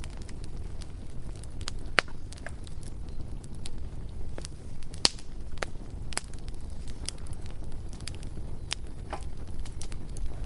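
Bonfire crackling: irregular sharp pops and snaps over a steady low rumble of the flames, with the loudest pops about two and five seconds in.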